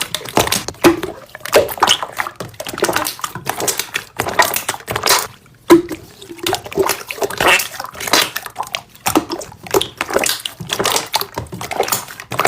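Slime being squeezed and poked by hand: a close, continuous run of wet squishing, clicking and popping.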